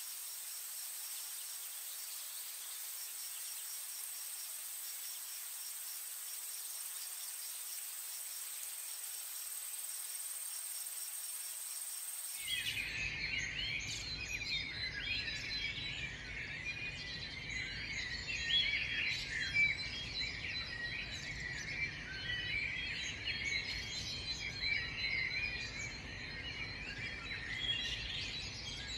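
Insects droning with a steady high whine and a regular pulsed chirping over a hiss. About twelve seconds in it cuts abruptly to a dense chorus of many birds chirping, with a low steady rumble underneath.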